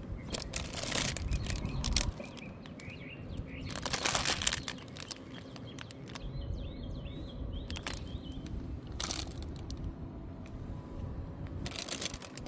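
Small birds chirping in short calls, broken several times by loud bursts of rustling noise.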